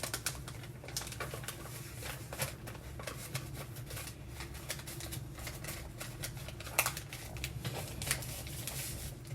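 Sheet of paper being handled and folded by hand: crisp rustles and crinkles at uneven intervals, a louder crackle near the end, over a steady low hum.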